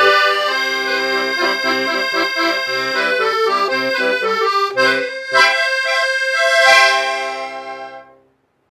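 Solo accordion playing a melody over a regular bass line. It ends on a held final chord that fades and stops about eight seconds in.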